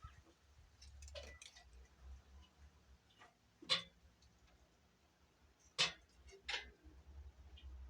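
Sparse sharp clicks and light knocks over a low steady hum: one about halfway through, then two louder ones close together later on, with fainter ticks between.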